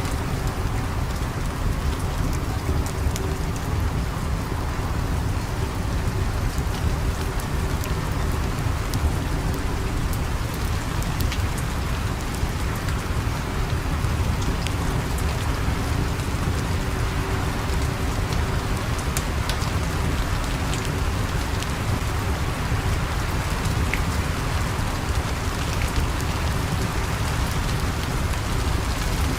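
Steady rain, with a deep continuous rumble underneath and scattered small sharp ticks.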